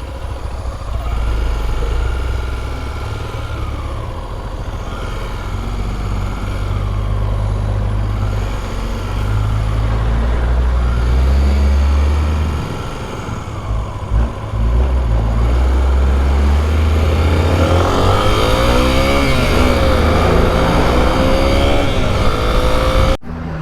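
Triumph Daytona sport-bike engine running under way, with wind rush. The engine note rises and falls with the throttle and gear changes, and wavers up and down near the end before the sound cuts off abruptly.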